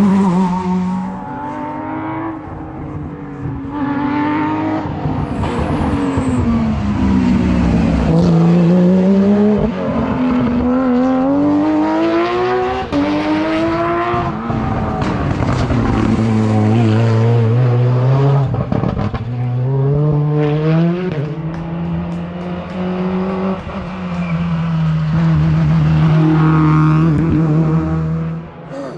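Rally car engines driven hard, revving up through the gears in rising steps and dropping back off for corners, over and over. Near the end the engine holds at a steady pitch before the sound cuts off suddenly.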